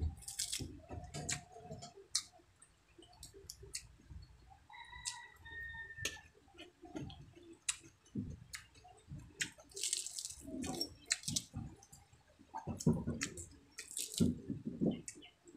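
Close-miked mouth sounds of someone eating with their hands: wet chewing and lip smacking, with many small crisp crackles as fried dried milkfish (daing na bangus) is chewed and picked apart with the fingers.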